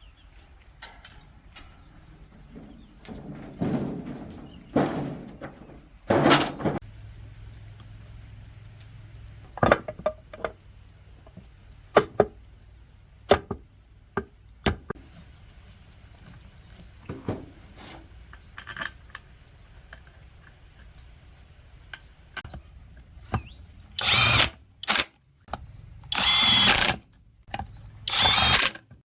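Workshop sounds of hand work on the small engine: scattered sharp clicks and knocks of tools and metal parts, then several short, loud bursts near the end.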